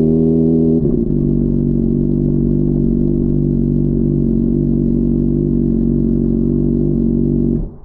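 Honda CBR600RR's inline-four engine idling steadily, its pitch settling slightly lower about a second in, then switched off near the end, the sound cutting off abruptly.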